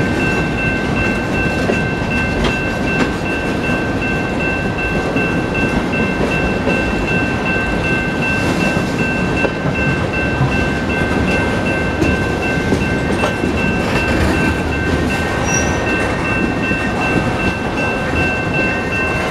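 BNSF freight train's cars rolling past a grade crossing: a steady rumble and clatter of wheels on rails, with two steady high ringing tones over it.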